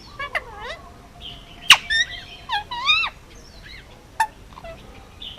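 Male Indian ringneck parakeet calling in a run of short chirps and bending whistles, with one sharp, loud chirp at about a third of the way in.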